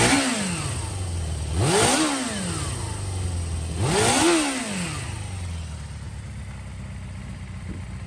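Suzuki Bandit 400's water-cooled four-stroke inline-four engine blipped three times, about two seconds apart, each rev rising and falling back to idle. The idle then cuts off about six seconds in.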